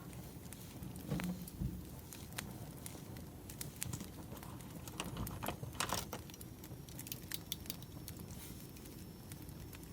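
Wood fire crackling: irregular sharp pops and snaps over a low, steady rumble of burning logs, with a denser run of snaps about halfway through.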